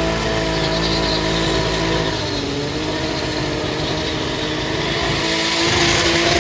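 Car engine running steadily under road and wind noise, easing slightly about two seconds in and building again near the end.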